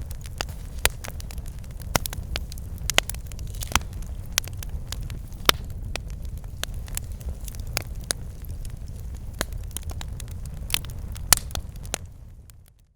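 Wood fire crackling, with frequent sharp snaps and pops of uneven loudness over a low steady rumble. It fades out near the end.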